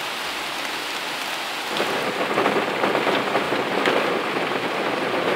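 Heavy rain falling and pattering on surfaces; it grows louder and denser about two seconds in.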